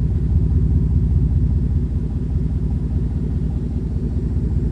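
Vehicle engine running with a steady, deep rumble made of fast, even pulses.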